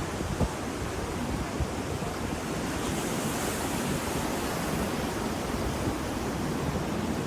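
Ocean surf, a steady rush of waves washing on the shore, with a brighter hiss of wash swelling about three seconds in.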